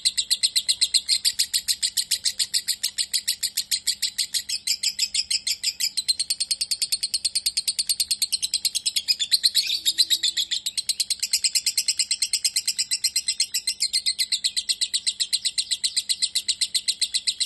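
Lovebird singing a long, unbroken run of rapid, evenly repeated chirps, about ten a second, without pause. This is the long chattering song that lovebird keepers call ngekek.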